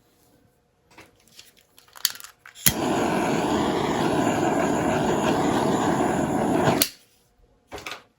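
A steady rushing noise lasting about four seconds that starts and stops abruptly, with a sharp click at switch-on and switch-off. Scattered small clicks come before and after it.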